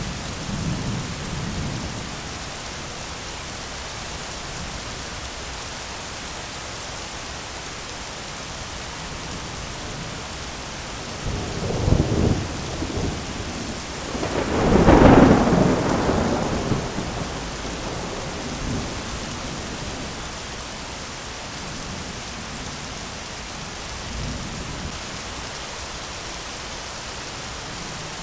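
Thunderstorm: steady heavy rain with rolling thunder. A crack of thunder comes about 12 seconds in, and the loudest peal follows a few seconds later and rumbles away over a couple of seconds; fainter rumbles come near the start and later on.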